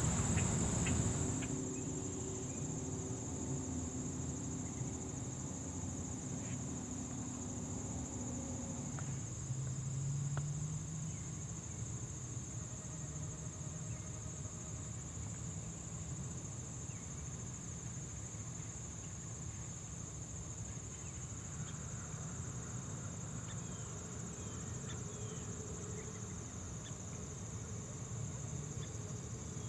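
A steady, high-pitched chorus of insects, one unbroken shrill note, over a faint low background rumble.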